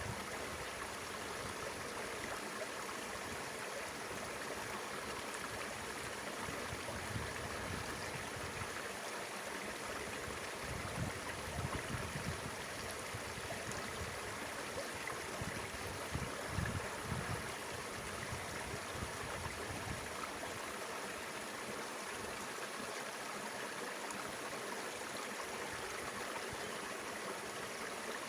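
Mountain river water flowing in a steady rush, with a few low bumps about ten and sixteen seconds in.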